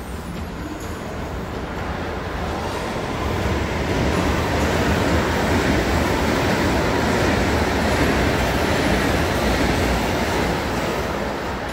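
Passenger train passing on the line: a steady rail rumble that builds over the first few seconds, holds loudest through the middle, and eases off near the end.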